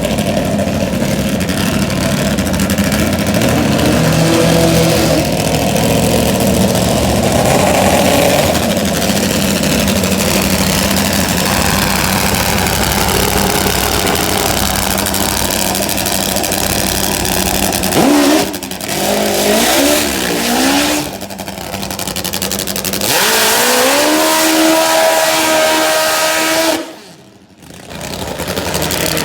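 Top fuel drag motorcycles' V-twin engines running loud, with several quick rev blips past the middle and then a rev that climbs and holds. The sound drops out sharply for a moment near the end.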